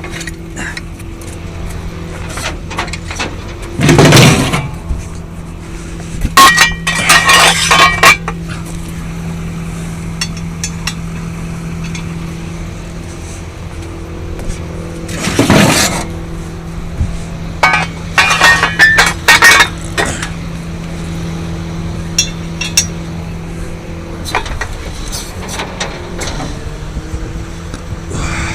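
Tow truck engine running steadily while metal towing gear clanks and chains rattle in several loud bursts as a car is hooked up.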